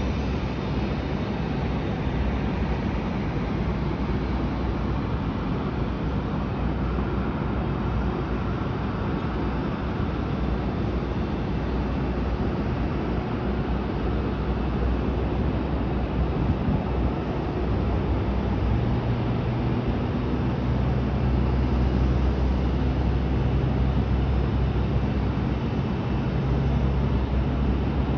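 Steady roar and rumble of a Boeing 737 on the ground during pushback, with a low hum that grows stronger about two-thirds of the way through.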